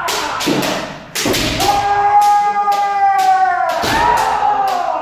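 Kendo sparring: bamboo shinai clacking and striking armour, and sharp stamps. About a second and a half in comes one long drawn-out kiai shout that drops in pitch as it ends.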